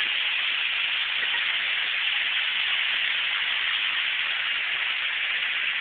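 Steady hiss of heavy rain heard from inside a car, at an even level throughout.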